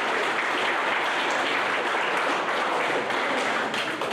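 Wedding guests applauding after a reading, a dense steady clapping that begins to thin out near the end.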